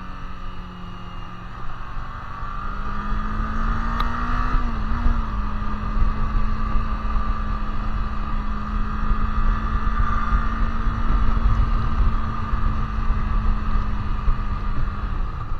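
Kawasaki Z400 parallel-twin engine through a Leo Vince GP Corsa Evo slip-on exhaust, running steadily under way. Its pitch climbs a little between two and four seconds in and wavers briefly about five seconds in. It then holds steady and drops near the end.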